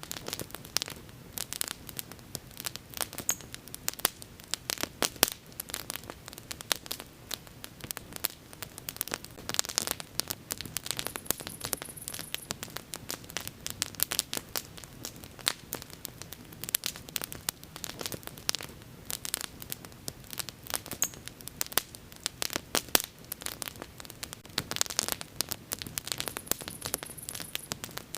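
Wood bonfire crackling, with many sharp pops and snaps in quick irregular succession over a soft steady hiss of burning.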